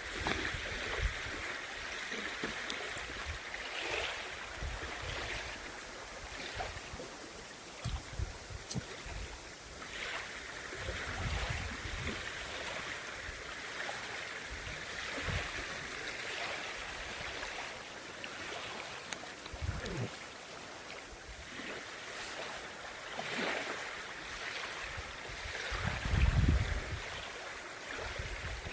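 Lake water washing and lapping in a steady rushing wash, with occasional low rumbles, the loudest near the end.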